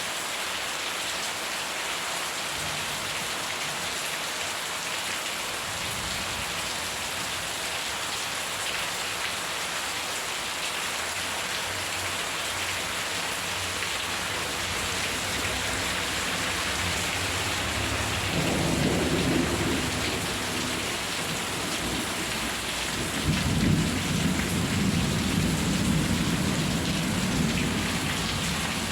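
Steady heavy rain with thunder rumbling, the low rolls growing louder twice in the second half.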